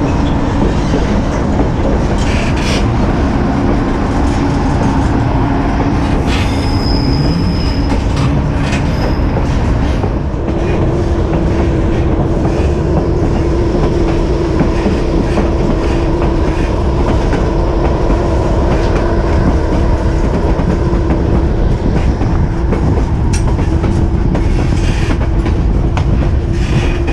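White Pass & Yukon Route narrow-gauge passenger train on the move, heard from the open platform of a car: a steady loud rumble of wheels on the rails. A brief high squeal comes about seven seconds in, and a steady hum joins about ten seconds in.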